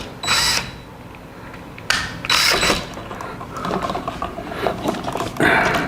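Screwdriver working the terminal screws of an electrical wall outlet during its replacement, in three short bouts of scraping, clicking turns.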